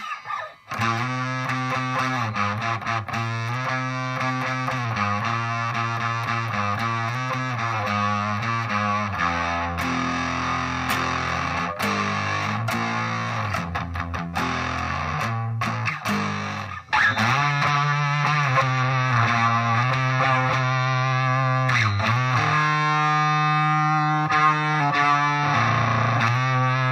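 Electric guitar played through a Zvex Fuzz Factory fuzz pedal, giving a thick, heavily distorted fuzz tone on sustained riffs and held notes. About three quarters of the way through, a note bends and warbles, a sign of the pedal's unstable, oscillating settings.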